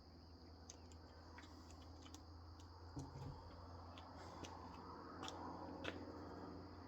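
Faint steady chirring of crickets, with scattered soft clicks and a dull thump about three seconds in.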